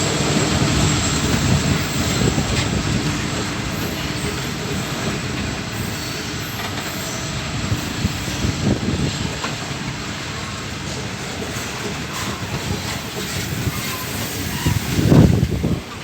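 Freight train wagons rolling past close by: a steady rush of steel wheels on rail with clatter and some wheel squeal, and a louder low rush about fifteen seconds in.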